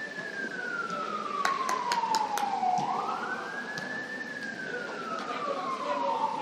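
An emergency vehicle's siren wailing: a single tone falls slowly, sweeps quickly back up about three seconds in, then falls again, about every four seconds.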